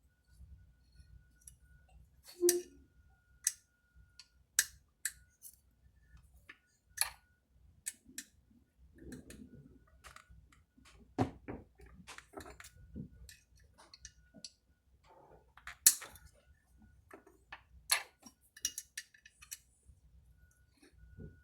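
Irregular clicks, clinks and light knocks of hand tools and metal chainsaw parts being handled and fitted as a Husqvarna 392XP is reassembled, with a few sharper knocks.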